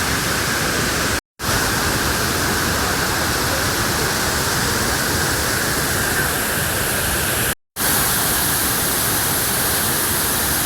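Abbey Falls waterfall: steady, loud noise of heavily falling water. It breaks off into two short silent gaps, about a second in and about seven and a half seconds in.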